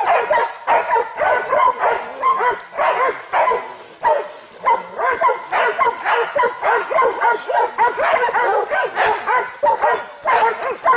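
Several hunting dogs barking and yelping in rapid, almost unbroken volleys, baying at a cornered wild boar.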